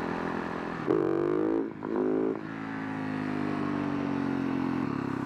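2011 Husaberg FS570 supermoto's single-cylinder four-stroke engine running under way: it revs up sharply twice in the first couple of seconds, then pulls steadily with a slowly rising pitch.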